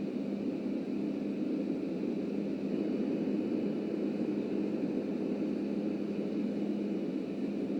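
Subway train running steadily along the line: an even, continuous rumble of wheels and running gear with a steady low hum.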